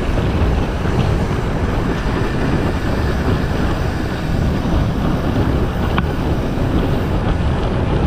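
Wind blowing hard over the microphone of a bicycle-mounted or rider-held camera while riding downhill at speed, a steady low rumble. A single short click about six seconds in.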